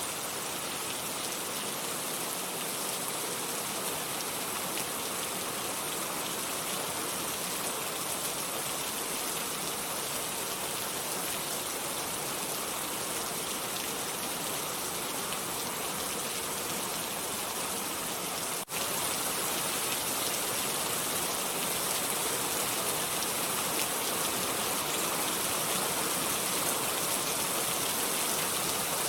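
Steady, dense rain falling, an even hiss of drops with no thunder. About two-thirds of the way through it cuts out for an instant, then carries on slightly louder and brighter.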